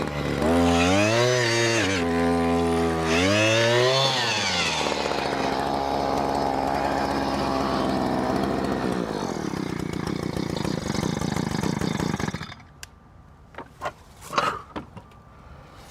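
Small engine of a powered post hole auger revving up and down as it bores a fence-post hole, then settling, winding down and stopping about twelve seconds in. A few short scrapes and knocks follow.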